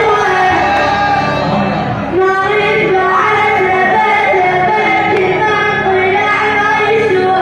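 A man singing a song with dense instrumental accompaniment, the voice holding long, bending notes.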